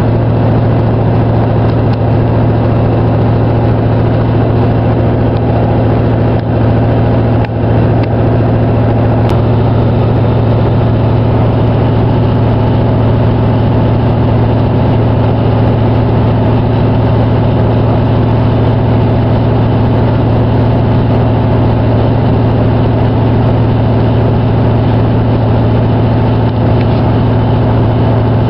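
A passenger train running at speed, heard from inside the carriage: a steady low drone of the train's drive with the rumble of the wheels on the rails, unchanging throughout.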